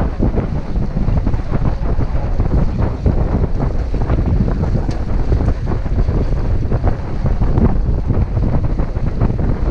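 Loud wind buffeting the microphone aboard a sailboat under way, with water rushing along the hull.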